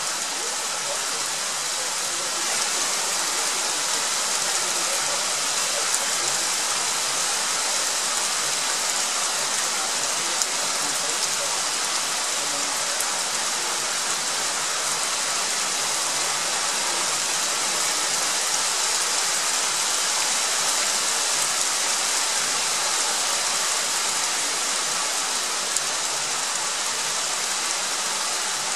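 Rain shower falling steadily, an even hiss that grows a little louder about two seconds in, with a few sharper drop ticks.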